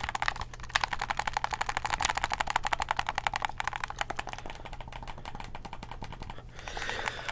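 Xbox One controller buttons clicked rapidly in quick succession, many clicks a second, thinning out and growing quieter after about five seconds.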